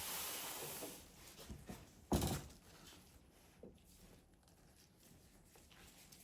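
Small handling noises at a soap-making bench: a hiss lasting about a second, then one sharp thud about two seconds in, followed by a few soft clicks and taps.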